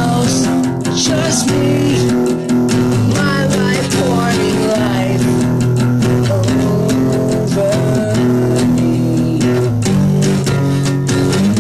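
Guitar music over a bass line: an instrumental stretch of an original song, with a melody line that bends in pitch above steady low notes.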